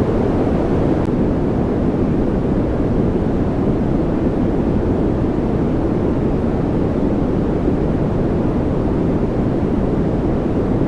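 Steady, unvarying white-noise track, weighted toward the low end so it sounds like a deep, even rush rather than a bright hiss, with no tone or rhythm in it.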